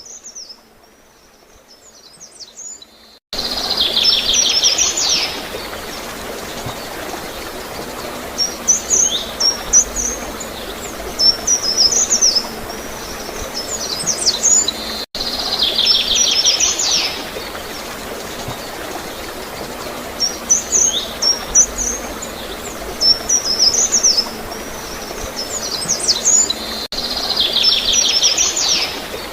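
Small songbirds chirping over a steady rush of gurgling flowing water. The water comes in suddenly about three seconds in, and the same phrase of chirps, opening with a rapid trill, recurs about every twelve seconds, with two brief breaks in the sound.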